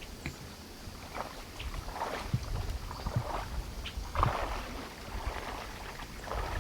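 Pond water splashing and sloshing in irregular strokes as a person moves through it to retrieve a downed goose.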